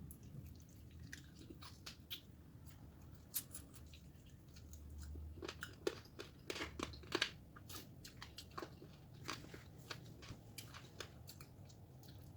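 Close-miked chewing and crunching of food, a run of short wet clicks and crunches that grows busiest and loudest about six to seven seconds in.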